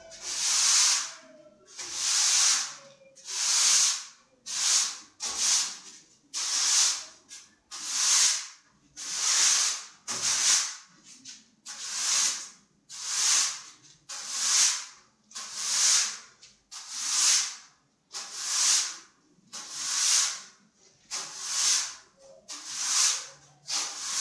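A stiff-bristled broom scrubbing a rough plastered wall, clearing off loose mortar and sand residue before it is filled. It goes in a steady rhythm of scratchy strokes, about one every second and a half, some coming in quick pairs.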